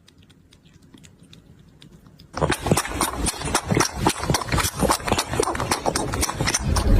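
Kitten drinking milk: faint clicks at first, then from about two and a half seconds in a loud, rapid run of irregular clicking smacks, several a second.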